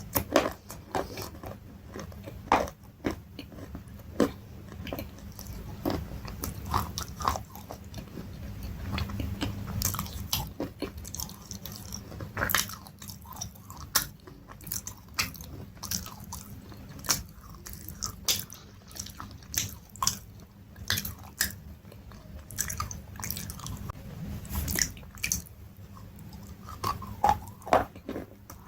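A person biting and chewing crunchy food close to the microphone: irregular sharp crunches and crackles, with softer chewing in between.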